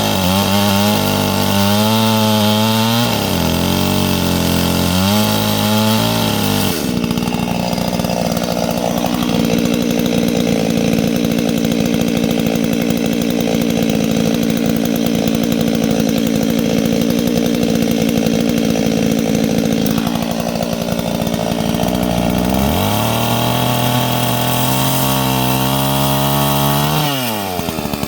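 Two-stroke chainsaw running loud: revved up and down for the first several seconds, then held at a steady speed for about thirteen seconds, then revved up again and dropping off near the end.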